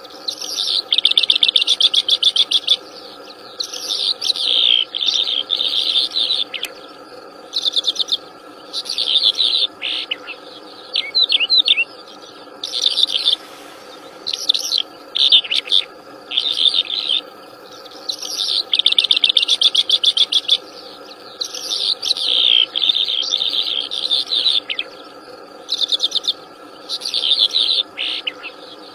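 Wild songbird singing rapid, trilled and chattering phrases of a second or two each, one after another with short gaps, over a steady background hum.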